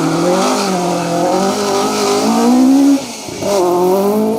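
Rally car engine revving hard, its pitch climbing, then cutting off abruptly about three seconds in, as on a lift or gear change, before picking up again half a second later.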